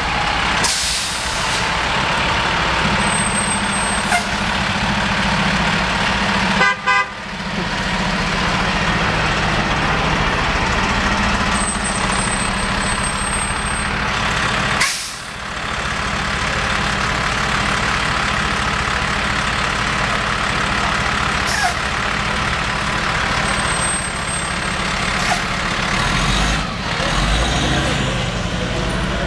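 Fire engine driving on the road: steady engine and road noise, with a few brief sharp knocks.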